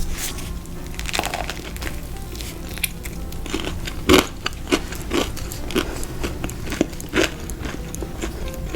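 Close-miked chewing of crunchy fried food: a run of crisp crunches about every half second through the middle, the loudest about four seconds in.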